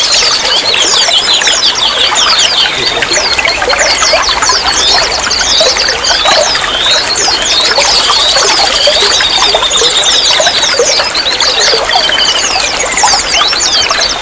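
Flowing water trickling and splashing steadily, with many small birds chirping over it in quick, high falling notes and short trills throughout.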